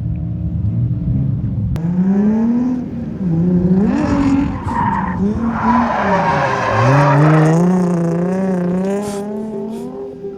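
A drift car's engine revving hard, its pitch rising and falling several times as the throttle is worked. Midway through, tyres squeal under it as the car slides.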